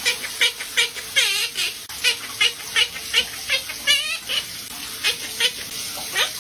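A parrot making a rapid series of short, high squeaky chirps, about two or three a second, broken by a wavering trill about a second in and again about four seconds in.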